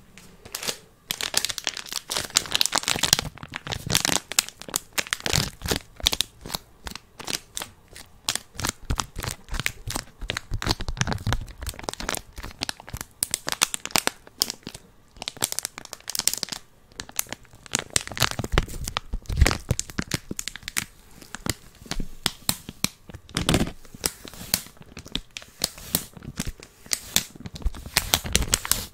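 Close, busy crinkling and crackling handling sounds, a dense run of irregular crackles and rustles with brief pauses.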